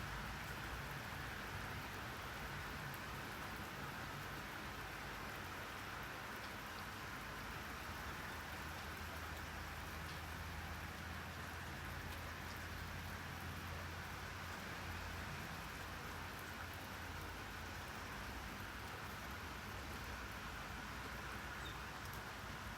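Steady rainfall, an even hiss of rain with faint scattered drop ticks and a low rumble underneath.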